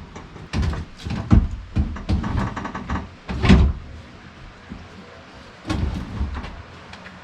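Irregular clunks and knocks of parts being handled at a bandsaw mill, with a short rattle about two seconds in and the loudest thud about three and a half seconds in.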